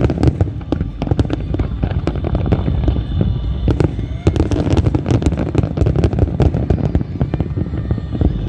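Aerial fireworks going off: a dense, continuous run of sharp cracks and bangs over a low rumble.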